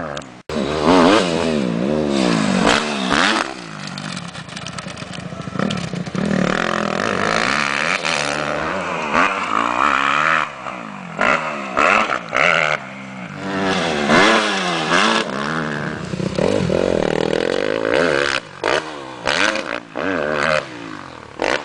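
Motocross bike engines revving hard, pitch climbing and dropping back again and again as the riders open the throttle and shift gears.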